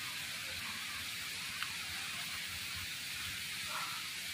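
Steady hiss of rushing water from a waterfall, with a single short click about one and a half seconds in.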